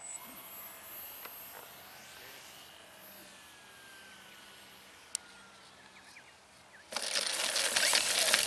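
Electric RC model plane's motor whine on a landing approach, faint and slowly falling in pitch. About seven seconds in, a sudden loud rushing noise takes over.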